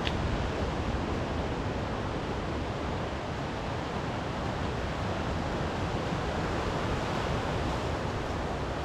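Steady rush of sea waves washing on the shore, mixed with wind.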